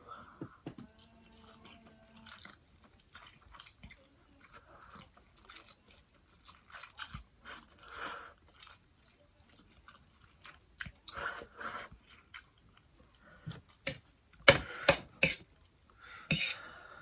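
A man chewing and smacking his lips as he eats, in short irregular bursts, with the loudest bites and smacks near the end.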